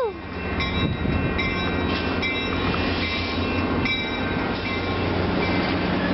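Caltrain commuter train passing close by: a steady rumble from the diesel locomotive and rolling cars, with short high squeals coming and going.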